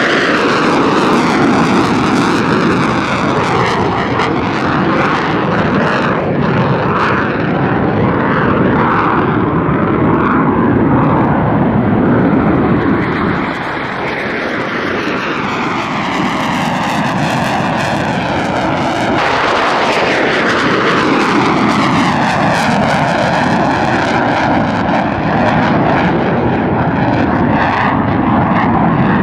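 Military jet aircraft flying past overhead, loud and continuous, the engine noise sweeping in pitch as each pass goes by.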